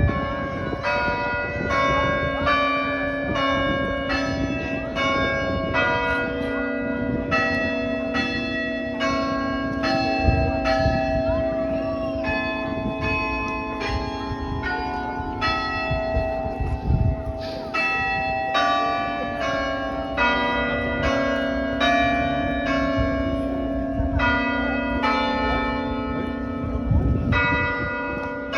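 Cathedral bells ringing out a Marian hymn melody, one bell struck after another at about two strokes a second, each note ringing on over a lingering low hum.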